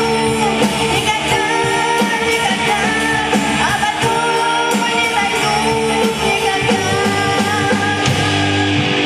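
A vocal-instrumental pop band playing live, with singing over held instrumental chords and a steady drum beat.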